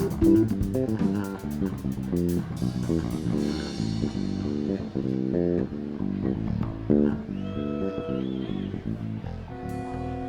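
Live band playing: electric guitar and bass guitar in quick runs of notes, with drum cymbals in the first couple of seconds, then sparser held notes and a gliding high guitar note near the end.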